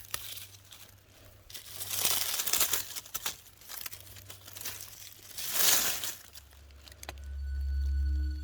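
Rustling, crinkling noise in two main bursts, about two seconds in and again near six seconds, with music fading in near the end.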